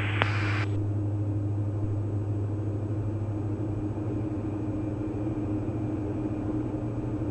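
Steady drone of the Diamond DA42 NG's twin Austro AE300 turbodiesel engines in flight, with a low hum and a faint steady tone above it. A short click comes right at the start as the radio transmission ends.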